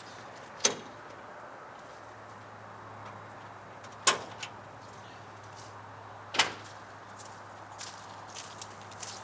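Three sharp knocks, spaced a few seconds apart, with a few lighter clicks between them over a faint steady hum.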